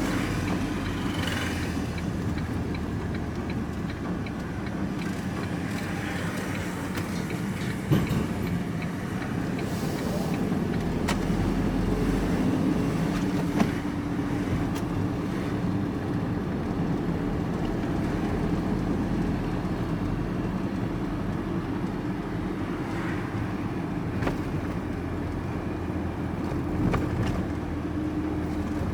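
Vehicle driving on the road, heard from inside the cab: a steady engine hum and road noise, with a couple of sharp knocks or rattles about eight and thirteen seconds in.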